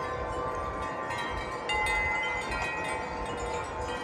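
Several wind chimes ringing in gusty wind, their overlapping tones sustaining and being struck again now and then. A low wind rumble runs underneath.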